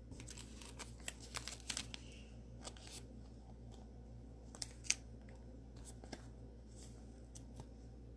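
Trading cards being handled: faint scattered clicks, taps and rustles, with a cluster in the first two seconds and two sharper ticks near five seconds, over a steady low hum.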